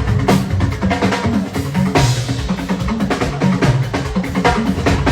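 Fuji band music in an instrumental stretch: dense, fast drumming over a bass line, with no singing.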